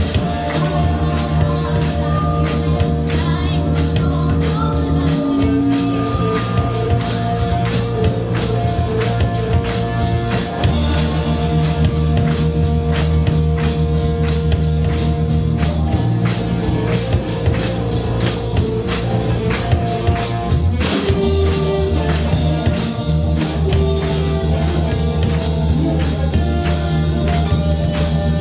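Rock band playing: drum kit keeping a steady beat under bass and electric guitar.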